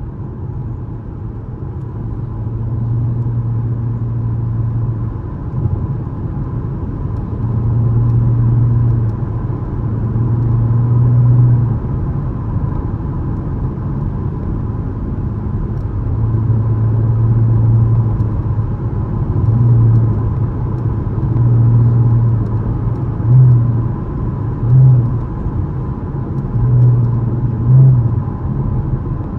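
2013 Camaro LS's 3.6-litre V6 engine and exhaust under way, shifted by hand. The engine note swells and falls as the throttle is worked, with three short, sharp revs near the end.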